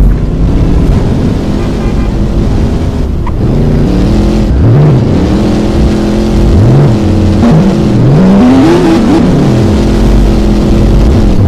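Car engines running, one revved up and back down several times, the pitch climbing and falling in quick arcs over a steady idle, with a heavy low rumble underneath.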